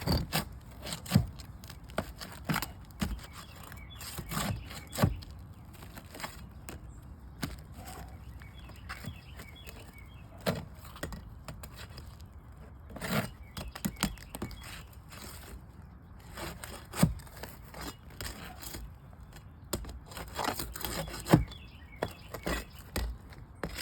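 Scraping, crackling and irregular sharp knocks of roof shingles being pried up and a stubborn nail worked at beneath them.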